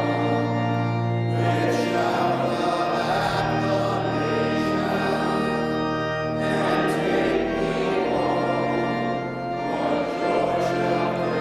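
Congregation or choir singing a hymn with pipe organ accompaniment, long held chords changing every second or two.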